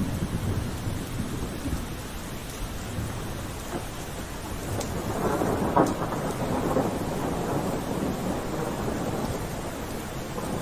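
Steady rain with a rumble of thunder that swells about halfway through, with a sharp crack near its peak.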